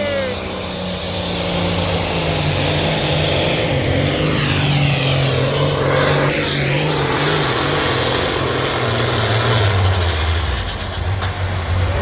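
A pulling tractor's diesel engine running flat out under load down the track, a steady heavy drone that drops in pitch about ten seconds in as the throttle eases off.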